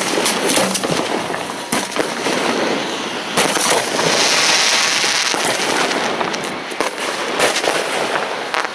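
Hand-fired fireworks shells launching from ground racks of mortar tubes in an irregular run of sharp reports, with hissing and crackling sparks between them. A spray of sparks hisses densely for about a second, around four seconds in.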